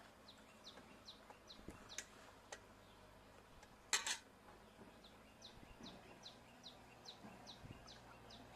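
A bird calling in two runs of short, falling chirps, about three a second. Between the runs come faint clicks of a fork on an enamel plate, and a louder double clack about four seconds in.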